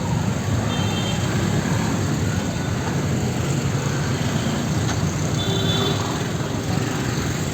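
Busy street traffic: a steady dense rumble of passing vehicles, with two brief high-pitched tones, one about a second in and another about five and a half seconds in.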